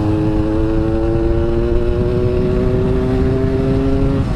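Yamaha RX-King's two-stroke single-cylinder engine running smoothly while under way, its pitch climbing slowly and steadily as it gathers speed, over a low rumbling noise.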